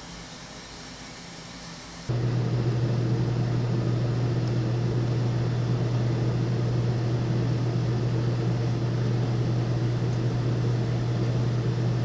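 Faint room hiss, then about two seconds in an abrupt cut to a loud, steady engine drone with a strong low hum that holds level without revving.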